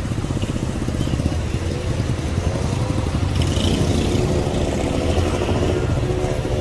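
Traffic noise heard from inside a moving car: a steady engine and road rumble, with an engine note rising and then holding from about two and a half seconds in.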